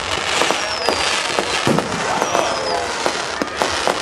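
Fireworks display: a dense run of sharp bangs and crackles from bursting shells, with two high whistles that slowly fall in pitch, one about half a second in and one a little after two seconds.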